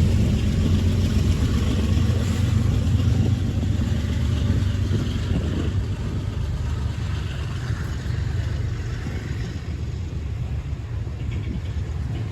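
Freight train running past, with a low diesel-locomotive rumble and wheel noise that slowly fade, then begin to swell again near the end.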